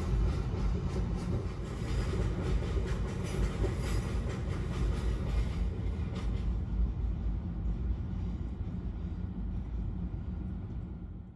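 Diesel-hauled freight train of open box wagons passing close by on a stone railway bridge: a steady rumble with wheel clatter, the higher clatter fading in the second half as the wagons draw away.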